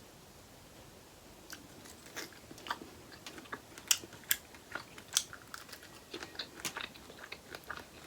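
A person biting and chewing seafood close to the microphone, with many sharp, irregular wet clicks and crunches that start about a second and a half in.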